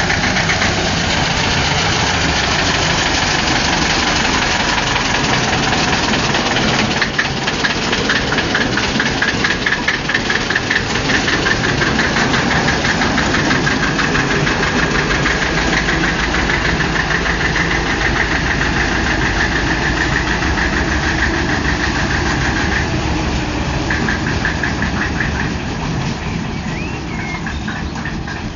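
Deutz diesel engine of a narrow-gauge field railway locomotive running steadily with an even, rapid firing pulse; the sound eases off a little over the last few seconds.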